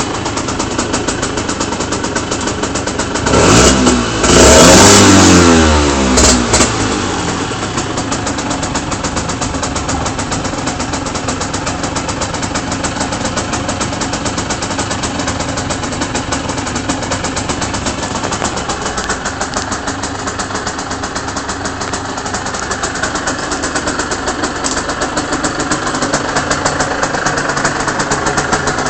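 2002 Aprilia RS 50's 50 cc two-stroke single-cylinder engine, fitted with an Arrow exhaust, idling. A few seconds in it is revved once, rising and falling in pitch, then settles back to a steady idle.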